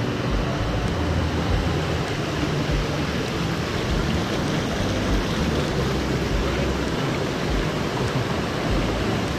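Rushing river water: a steady, unbroken noise.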